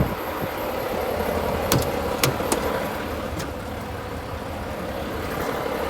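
Car-hauler semi truck's engine idling steadily, heard from the cab, with a few sharp clicks between about two and three and a half seconds in.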